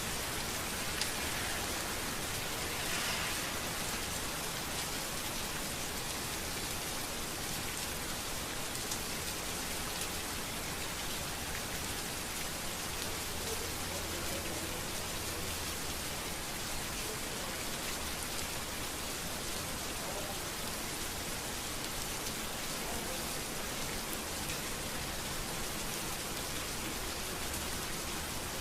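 Steady rain falling on street surfaces, an even hiss of many raindrops, with a faint low hum underneath.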